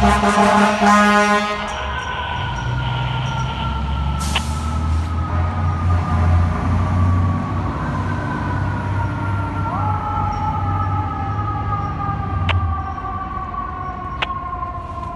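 Fire engine siren winding slowly down in pitch, spun back up about ten seconds in and winding down again, over the low running of the truck's diesel engine. A horn blast sounds at the very start.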